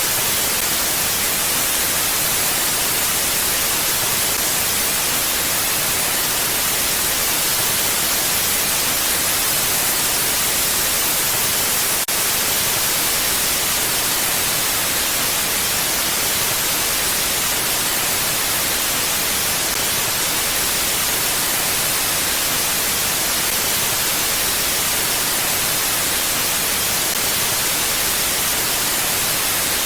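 Mountain wind as a steady, even hiss with no gusts, brightest in the high end.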